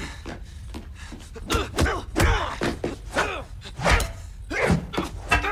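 Several heavy thuds, with short grunts and cries of effort between them, typical of a staged fistfight.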